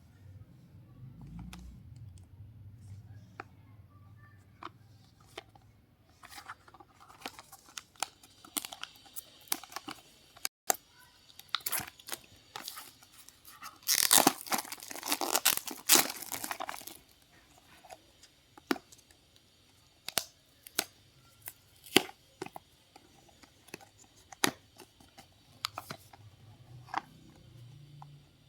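Earbud packaging being handled and opened: scattered sharp clicks and taps, with a louder tearing, rustling stretch of about three seconds around the middle.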